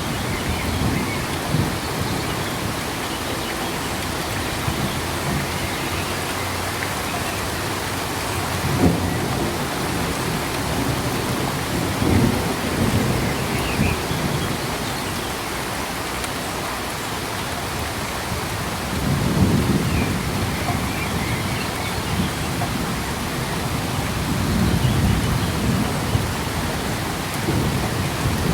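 Steady rain falling, with several low rumbles of thunder swelling and fading over it, the longest about two-thirds of the way through.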